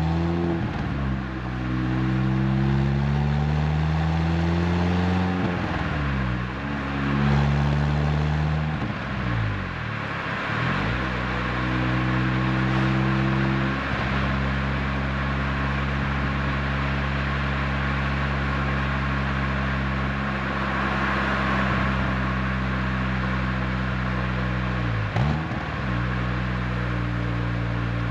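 Renault Twingo RS Gordini's four-cylinder engine heard through an aftermarket Inoxcar 80mm stainless steel exhaust under gentle driving, with road noise. The engine note climbs in pitch through several gear changes over the first ten seconds or so, then holds steady at a cruise, with one quick shift near the end.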